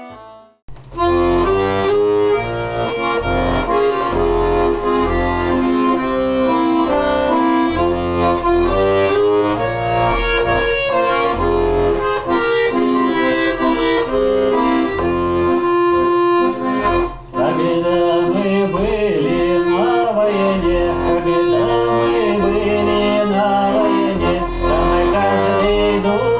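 Accordion playing an instrumental passage of a song, melody over chords with a pulsing bass. It starts about a second in, with a brief break around two-thirds of the way through.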